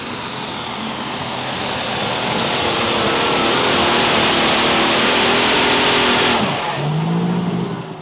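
Super stock pulling tractor's engine running flat out under load, growing louder as it comes down the track. About six seconds in, the throttle is cut and the engine winds down with a falling tone.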